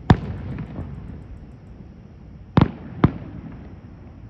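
Aerial firework shells bursting: one sharp bang right at the start, then two more about half a second apart a little past halfway, each trailing off in an echo.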